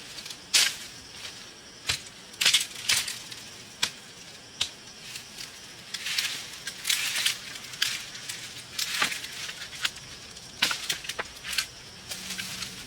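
Irregular dry crunching and crackling with sharp snaps, from hand work on dry plant material such as bamboo or brush. A denser run of crunching comes about six seconds in.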